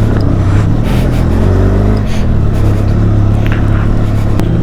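Motorcycle engine, a Benelli TRK 502X parallel twin, running steadily under light load in a low gear, its pitch rising slightly about halfway through.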